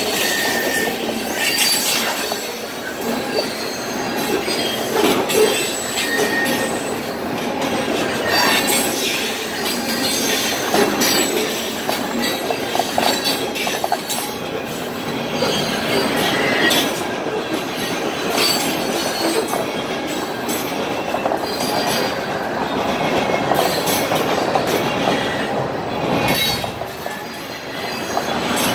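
Freight train cars (covered hoppers and tank cars) rolling past: a steady wheel-on-rail rumble with irregular clicks over the rail joints and a few brief, high wheel squeals.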